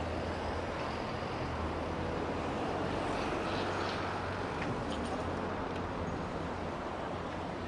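Steady city background noise, a constant rush with a low hum underneath and a few faint clicks, typical of street traffic.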